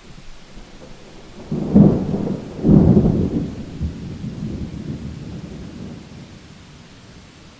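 A thunderclap breaks about a second and a half in, with a second, louder crack about a second later, then a low rumble fades away over several seconds. Steady rain hiss continues underneath.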